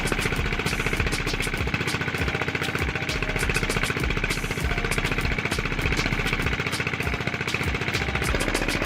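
Diesel engine running steadily, with a fast, even beat of firing knocks.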